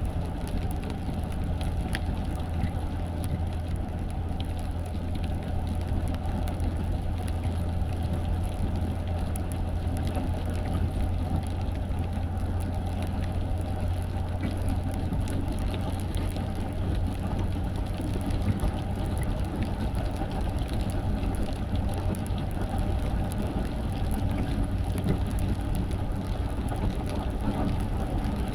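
Steady car cabin noise while driving: a constant low drone from the engine and tyres on the road, with no change in pace.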